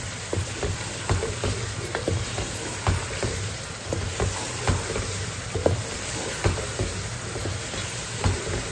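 Chicken pieces sizzling in oil and spiced masala while a wooden spoon stirs them in a pot, the spoon knocking and scraping against the pot at irregular intervals. This is the bhunai stage, the dry-frying of the chicken and masala before water goes in.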